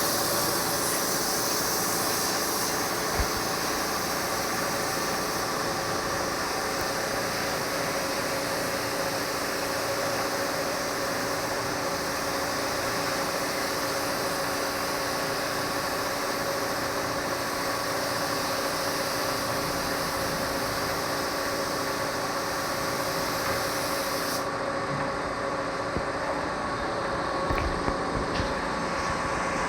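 An electric woodworking machine running steadily with a constant hum and hiss. Its high hiss drops away about 24 seconds in, and a few light knocks follow near the end.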